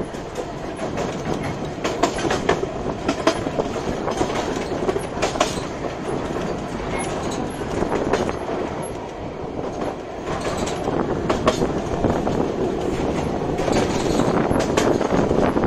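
Narrow-gauge train running along the track: a steady rumble of wheels on rail with irregular sharp clicks and clacks, growing louder near the end.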